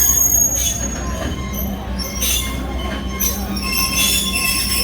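Passenger train rolling along the track, heard from an open-air car: a steady low rumble of wheels on rail with thin, steady high squealing tones and short hissy flares every second or so.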